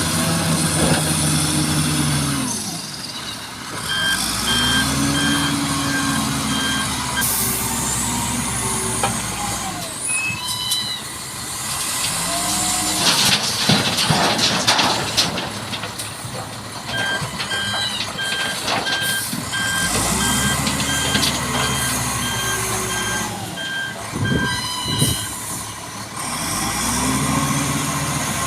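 Heavy diesel engines revving up and down again and again. A reversing alarm beeps steadily in two spells, the second one long, and a burst of air hiss comes about halfway through, as from an air brake.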